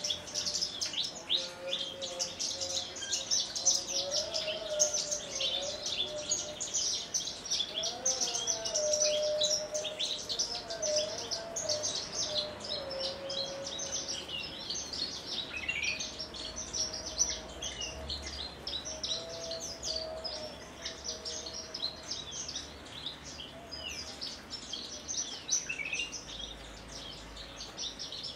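Javan bush lark (branjangan) singing a long, unbroken run of rapid high chirps and trills, with a fainter wavering lower tone underneath.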